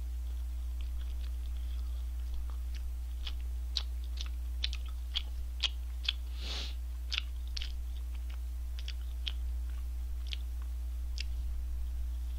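Close-miked chewing of a McSpicy Shanghai Deluxe fried-chicken burger: a string of small, sharp crunches and mouth clicks, with a short rush of noise about halfway through, over a steady low hum.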